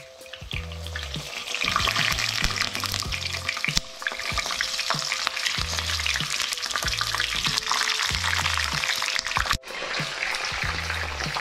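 Sweet green peppers sizzling and crackling as they fry in hot oil in a pan, swelling about a second and a half in as more go in.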